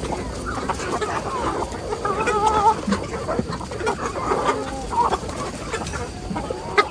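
A flock of chickens clucking and calling, with one longer wavering call about two seconds in.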